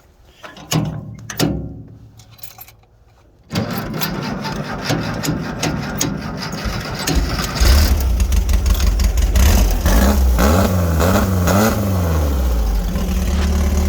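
Volkswagen sandrail engine cold-starting. After a few faint knocks it starts suddenly about three and a half seconds in and runs unevenly, getting stronger about halfway. Its pitch rises and falls a few times before it settles into a steady idle.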